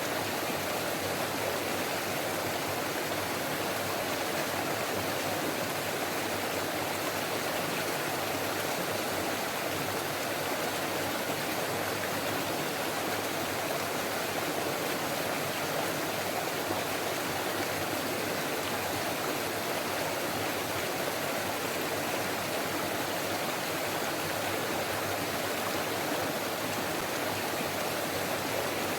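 Forest stream flowing over rocks: a steady babbling rush of water.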